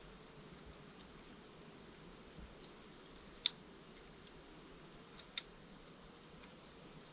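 Wood fire in a fireplace crackling: a soft steady hiss of burning logs with scattered light ticks and two sharp pops, about three and a half and five and a half seconds in.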